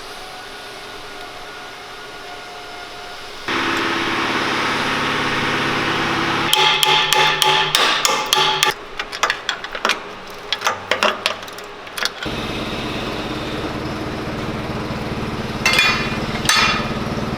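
Hammer blows: a quick, irregular run of sharp strikes lasting about five seconds in the middle, between stretches of steady machine hum. After the hammering a lower, steady engine-like drone starts.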